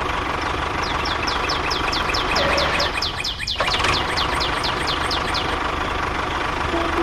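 A steady mechanical running noise, like a small engine or motor, under a bird calling a rapid series of short, high, falling chirps, about four a second, that stop shortly before the end.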